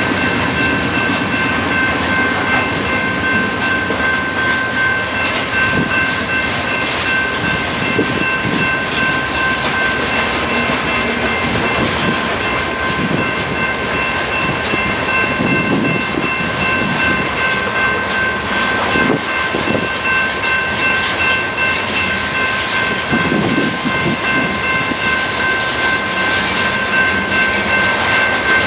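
Freight cars of a unit frac sand train rolling past, the wheels clicking and thumping over rail joints at irregular intervals, over a steady high ringing tone that holds throughout.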